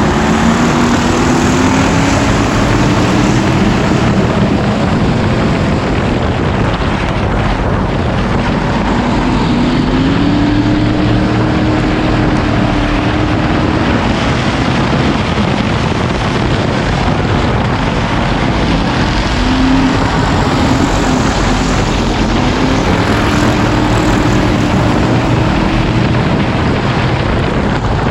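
Dirt-track race cars' engines running hard on the oval, the pitch climbing and dropping as cars accelerate and pass.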